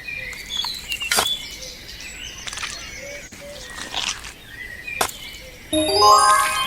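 Birds chirping, with a few sharp clicks. Near the end a loud pitched sound with several harmonics starts.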